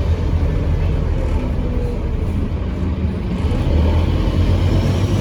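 Scania N230UD OmniCity double-decker bus's diesel engine running under way, with a loud, deep drone and a high turbo whistle. The whistle fades in the first part and starts rising again near the end.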